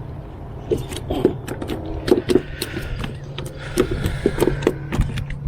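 A rapid scatter of small clicks and light knocks, like gear being handled, over a steady low hum.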